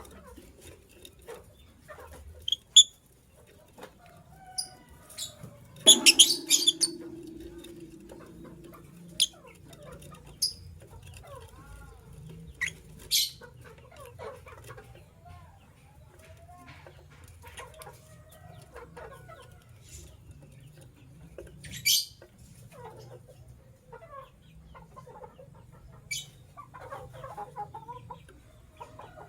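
Lovebirds calling: a few sharp, shrill chirps spaced several seconds apart, the loudest a dense burst about six seconds in, over softer, lower chattering calls.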